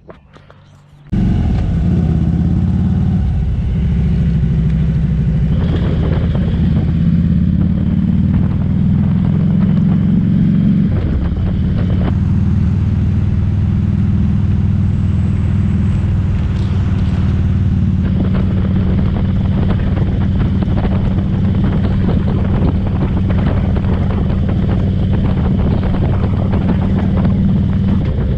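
Motorcycle engine running steadily under the rider; the sound begins abruptly about a second in, and its pitch shifts once around the middle.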